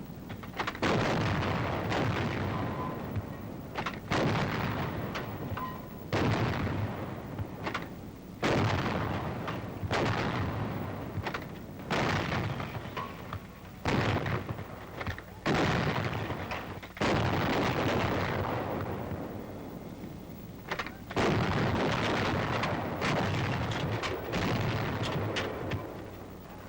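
Battery of 90 mm antiaircraft guns firing in rapid succession, a shot about every one and a half to two seconds. Each sharp report is followed by a long rumble that dies away. There is a longer pause about two-thirds of the way through before the firing resumes.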